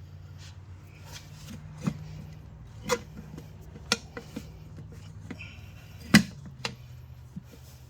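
Metal tire tools clinking and scraping against a steel wheel rim as a tire bead is levered on, a few sharp clinks with the loudest about six seconds in. A steady low hum runs underneath.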